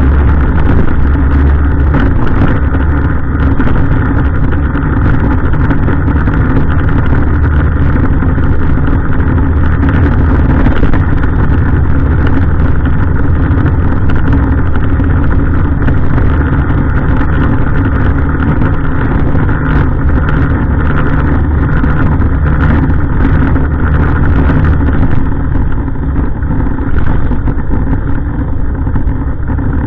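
Heavy refuse truck's diesel engine running steadily with a strong low rumble, easing slightly in level near the end.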